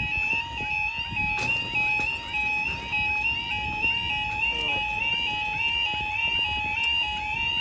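Level crossing warning alarm sounding: a repeating, warbling two-tone electronic alarm that warns of an approaching train as the crossing closes.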